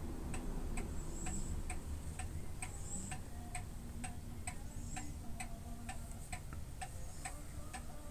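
Steady, even ticking, about two ticks a second, over a low steady rumble.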